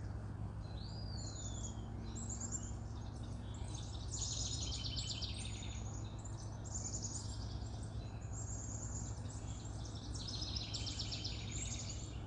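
Wild birds singing in repeated bouts of fast, high trills, with one swooping whistle about a second in, over a steady low background hum.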